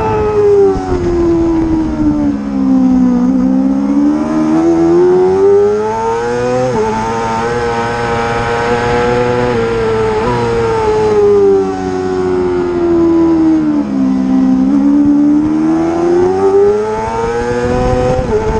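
Racing motorcycle engine at speed on a circuit: the revs fall twice as the bike slows for corners and climb again under acceleration, each time broken by a quick gear change.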